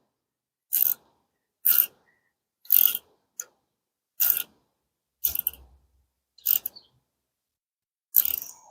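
Hand ratchet wrench clicking in short strokes, roughly one a second.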